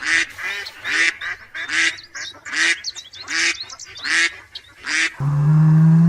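A bird gives a run of about seven short, harsh honking calls. About five seconds in, a cow starts a long, low moo.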